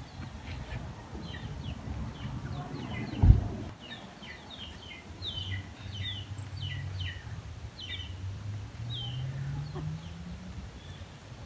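Small birds chirping, a quick series of short, high, falling chirps. A single loud low thump about three seconds in, over a low background rumble with a hum that rises in pitch near the end.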